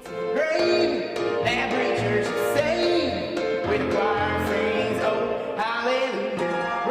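Country-style singing with instrumental accompaniment, sustained sung notes over a steady backing.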